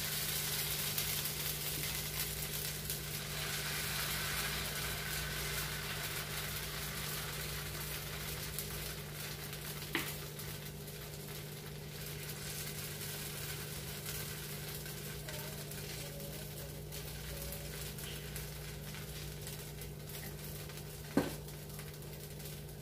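Dosa batter sizzling on a hot pan as it is poured and spread with a ladle, the sizzle slowly dying down. A small click about halfway through and a sharper knock near the end, over a steady low hum.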